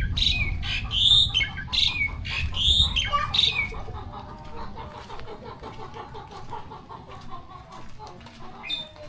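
A bird calling loudly and repeatedly, a quick string of shrill notes about two a second over a low rumble, which fades away after about three and a half seconds.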